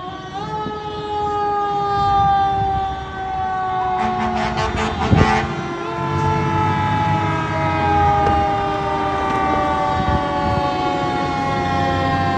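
Fire truck's wailing siren, held at one long pitch that slowly falls as it winds down, over the rumble of the truck's engine. About four seconds in, a quick run of about half a dozen short sharp blasts cuts through it.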